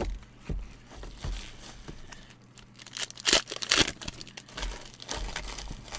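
Plastic wrapping on trading card boxes being torn and crinkled by hand, in irregular rustles and small clicks, loudest about three and a half seconds in.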